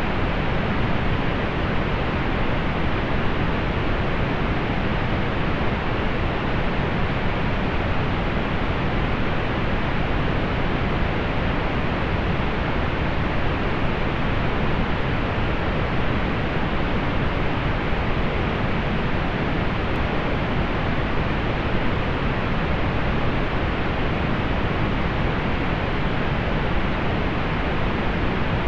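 Steady, unchanging pink noise: an even hiss, strongest in the low end and rolling off in the highs, like a soft rushing.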